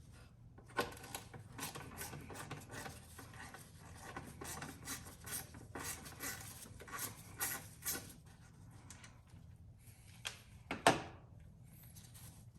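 Hand work on a BMW mass airflow sensor and its T20 Torx screws: rubbing, scraping and small clicks as the sensor is worked loose, with one sharp click near the end.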